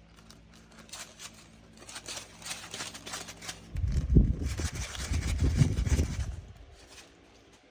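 Small resin diamond-painting drills clicking and rattling as they are handled and poured, with a louder stretch of rustling and clattering handling noise in the middle.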